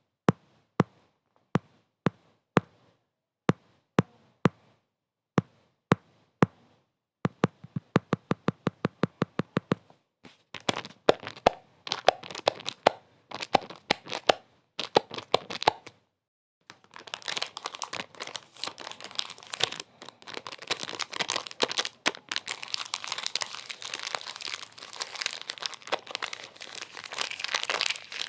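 Sharp clicks or taps at uneven spacing, quickening into quick runs around 8 s. From about 10 s they give way to crackling, crinkling sounds that turn into a dense, continuous crinkle from about 17 s, like material being crumpled.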